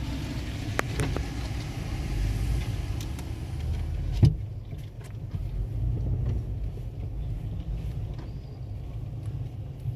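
Low rumble heard from inside a car going through an automatic tunnel car wash. A hiss over the first half stops at a single loud thump about four seconds in.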